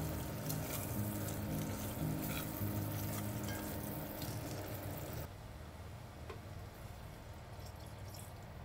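Sliced onions and garlic sizzling as they are stirred with a spatula in an enamelled cast-iron Staub pot, with frequent small scrapes and taps of the spatula. About five seconds in the sound drops suddenly to a quieter hiss.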